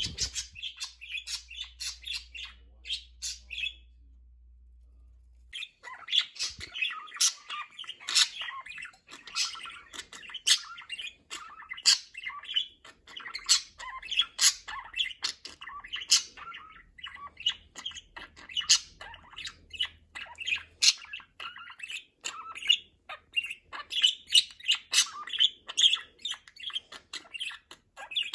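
Budgerigars chattering: a rapid, continuous run of short chirps and squawks. It breaks off for a couple of seconds about four seconds in, then picks up again.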